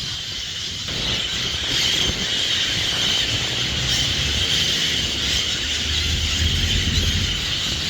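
A large flock of birds calling all at once, a dense, steady, high-pitched chorus of squealing, with a low rumble underneath that grows from about a second in and is strongest near the end.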